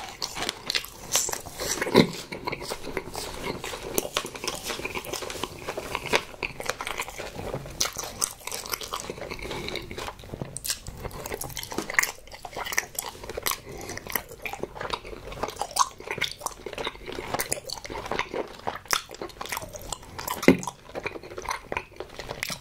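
A person chewing food close to the microphone: a dense, steady run of wet mouth clicks and smacks, with a couple of louder ones about two seconds in and near the end.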